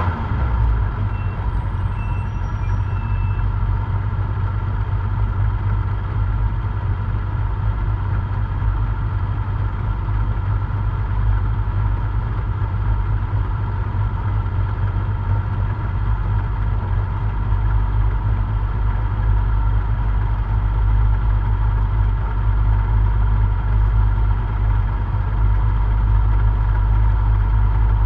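Simca 1000 rally car's rear-mounted four-cylinder engine idling steadily, heard from inside the stripped cabin.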